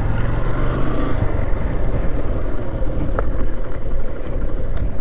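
Motorcycle engine running steadily while being ridden, with a heavy low rumble.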